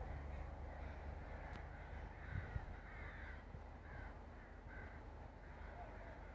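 Birds calling in a steady run of short, repeated calls, faint, over a low rumble, with two soft knocks about two and a half seconds in.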